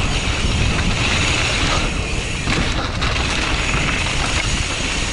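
Wind buffeting a helmet-mounted camera's microphone as a mountain bike descends a wet dirt trail: a steady, loud rush with deep rumble, mixed with the bike's rattle over the ground.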